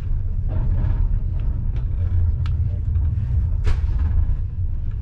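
Low, steady rumble of a moving passenger train heard from inside the carriage, with a few short sharp clicks, the clearest about two and a half and three and a half seconds in.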